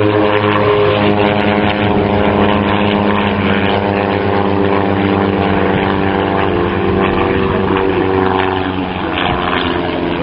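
A propeller-driven display aircraft's piston engine running hard in flight, a steady drone whose pitch slowly falls as it passes.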